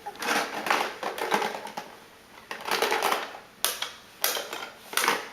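Wrapping paper crumpling and rustling, then a run of sharp separate clicks and knocks roughly every half second.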